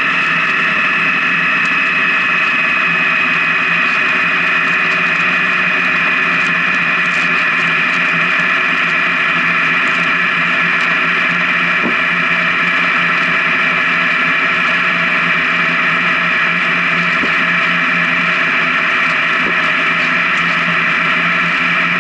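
Honda Gold Wing motorcycle cruising on the highway: steady engine and wind noise, with a whining tone that slowly eases lower in pitch.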